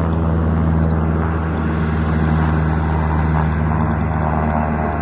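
Steady, loud engine noise with a low, even drone that holds throughout.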